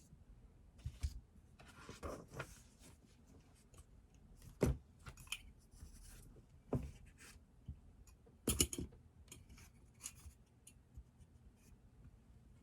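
Scattered small taps, clicks and brief scratchy rustles of objects being handled at a desk, with sharper taps about four and a half seconds in and near eight and a half seconds.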